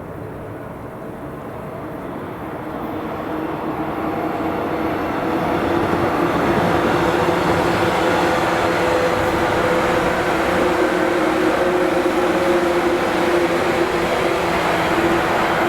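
JNR 185 series limited-express electric train running past, its traction motors giving a loud, steady whine over the wheel and rail noise. It grows louder over the first six seconds or so, then holds steady.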